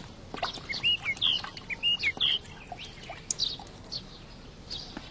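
Small birds chirping: a quick run of short, curving whistled notes about a second in, then scattered single chirps.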